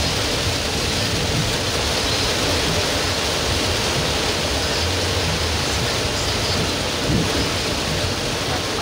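Heavy rain pouring onto a car's roof and windscreen, heard from inside the cabin as a steady hiss over the low rumble of the car driving on a wet road.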